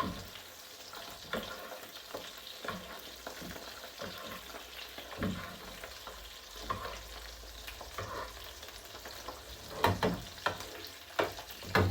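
Mackerel fillets frying in oil and melted butter, a steady sizzle, with scattered clicks and scrapes of a spoon on the pan as the fish is basted, a few sharper ones near the end.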